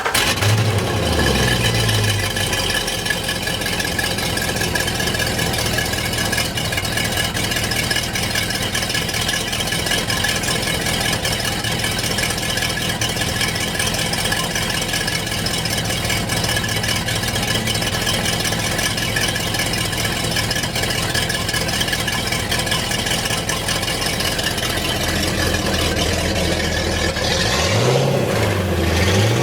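Mercruiser 496 Mag big-block V8 starting right at the start, flaring up briefly and settling into a steady idle, with the Corsa Captain's Call exhaust still closed in quiet mode. It runs for a freshwater flush after a sea trial. A brief rev rises and falls near the end.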